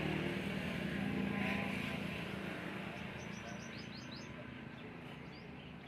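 Massey Ferguson 240 tractor's three-cylinder diesel engine running steadily, fading gradually, with birds chirping from about three seconds in.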